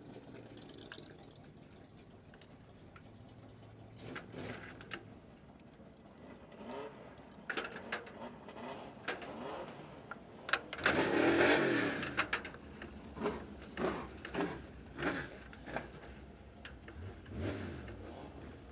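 Car engines running, with one louder surge a little past the middle.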